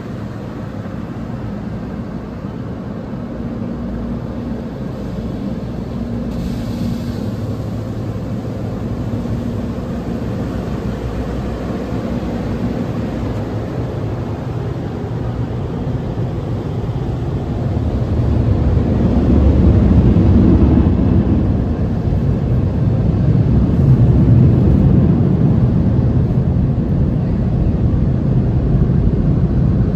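Steady low rumble with a whooshing hiss, heard from inside a car. It grows clearly louder about 18 seconds in.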